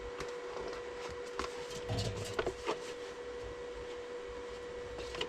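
A steady electrical hum with a few short knocks and clicks of handling, the loudest a pair of clicks a little past the middle. There is no welding arc crackle.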